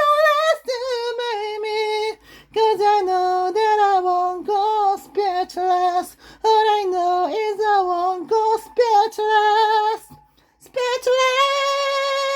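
A woman singing a melodic line in short phrases, pausing briefly about ten seconds in, then ending on one long held note.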